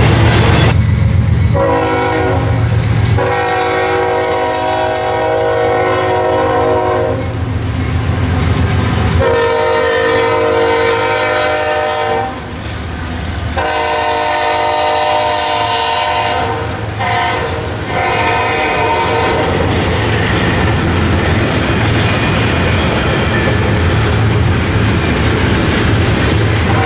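Diesel locomotive's multi-note air horn sounding a series of blasts, several of them long, over the low rumble of the locomotive and the clickety-clack of the train rolling past.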